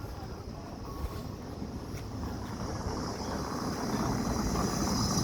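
A motor vehicle approaching along the street, its engine and tyre noise growing steadily louder.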